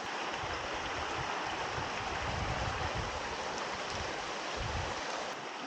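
Rocky mountain stream rushing over rocks, a steady even rush of water. A low, uneven rumble runs underneath and dies away about five seconds in.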